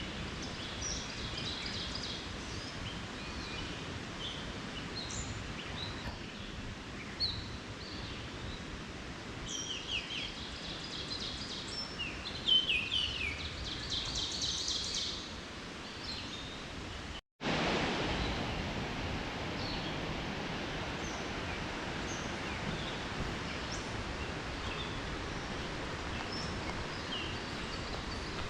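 Woodland birdsong from several birds, an oriole among them, with a burst of busy song about halfway through. About two-thirds of the way in the sound cuts out for an instant, then a steady rush of wind in the leaves carries on under fainter bird calls.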